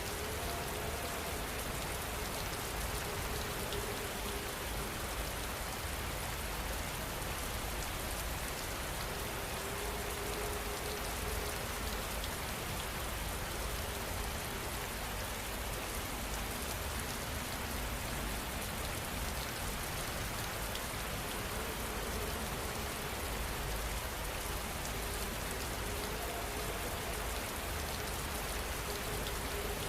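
Steady rain falling: a dense, even patter of drops on a surface, unchanging throughout.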